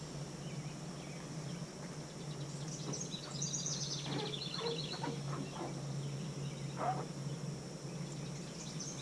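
A songbird singing two phrases of quick repeated high notes, over a steady low hum of outdoor background noise.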